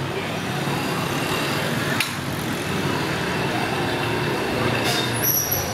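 Steady outdoor din of a fireworks crowd with a sharp firework crack about two seconds in and another near the end, followed by a brief high whistle.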